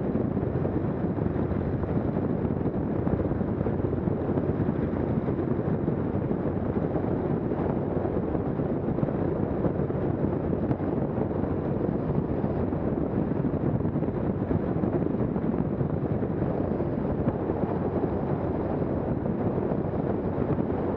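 Lycoming IO-375 engine and propeller of a Zenith STOL CH 750 Super Duty running steadily, heard from inside the cabin.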